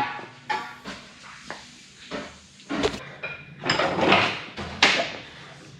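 A string of knocks and clunks from car parts and tools being handled and pulled loose, about six in all, with a sharp bang about three seconds in.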